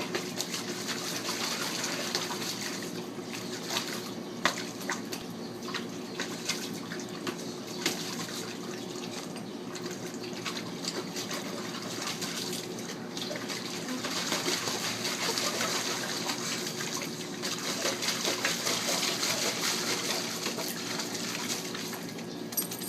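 Water running steadily, with scattered splashes as a Labrador retriever puppy plays in it.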